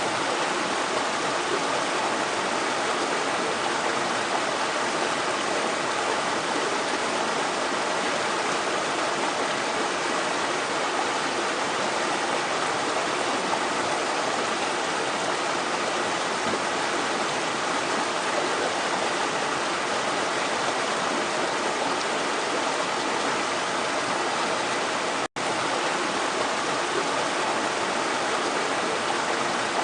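Steady rush of water running over rocks, like a stream or small cascade. Late on, the sound cuts out for a split second and comes straight back.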